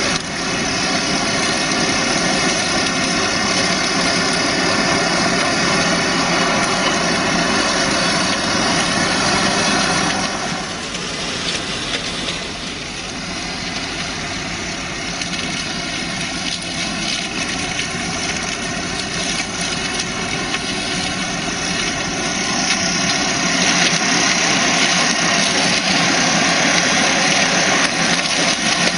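Farm tractor engine running steadily while working a shrub trimmer attachment. It drops off slightly about ten seconds in and grows louder, with more hiss, from about 23 seconds on.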